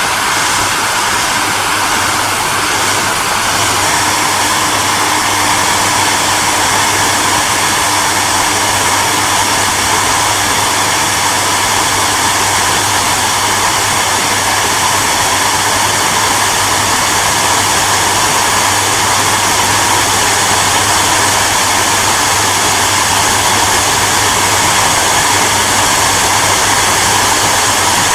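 Hair dryer running steadily on one setting: an even rushing blow of air with a low motor hum beneath it.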